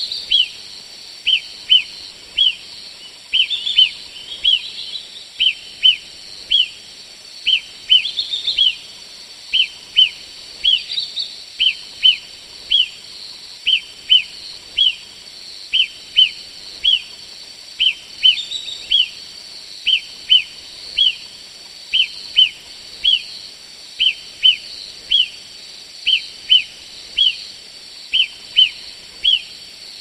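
A songbird calling: short, sharp high notes in quick pairs and threes, repeated over and over at a steady pace, with fainter, higher twittering from other birds now and then.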